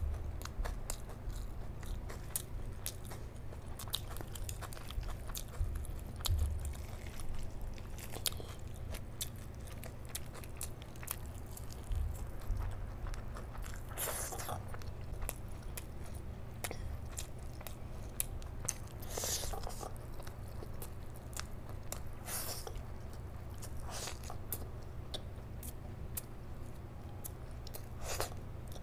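Close-miked eating sounds of a person chewing big mouthfuls of rice and curry eaten by hand: many small wet mouth clicks and smacks, with a few louder, longer noisy bursts scattered through.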